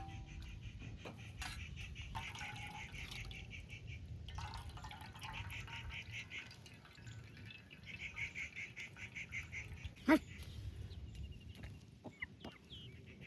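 Bird calls in three runs of rapid chattering, each lasting about two seconds, over a low steady rumble, with one sharp knock about ten seconds in.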